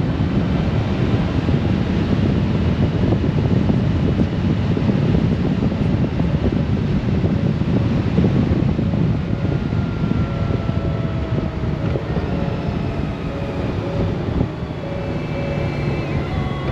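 Wind rushing over the microphone of a moving Honda Gold Wing DCT motorcycle, over the running of its flat-six engine. In the second half steady tones come in and slowly fall in pitch, and the rush eases a little near the end.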